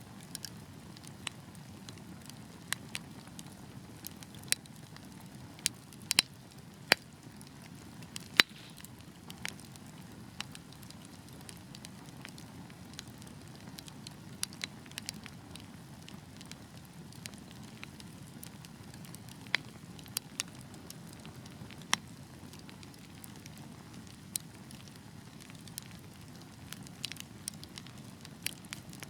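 Wood fire burning: a steady low hiss with irregular sharp crackles and snaps from the burning logs, a few louder pops among them.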